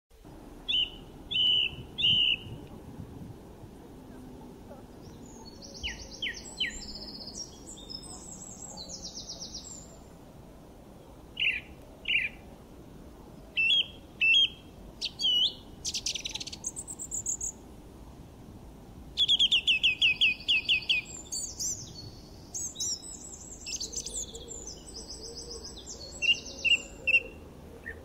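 Songbirds chirping and singing in a mix of short clear chirps, fast trills and quick runs of notes, with pauses between phrases. The loudest is a rapid string of notes about two-thirds of the way through. A faint steady outdoor background hums underneath.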